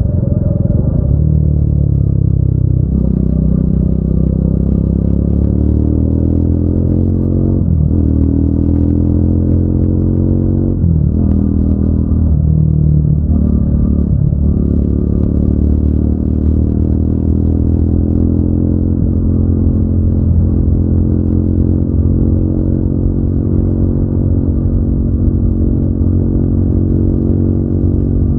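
Triumph Speed 400's single-cylinder engine and exhaust under way, climbing in pitch as it accelerates, with brief dips at gear changes about eight, eleven and fourteen seconds in, then holding a steady cruise.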